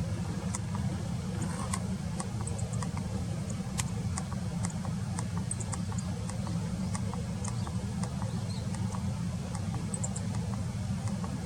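Short, thin, high call notes of buntings, scattered irregularly and often in quick pairs, over a steady low rumble.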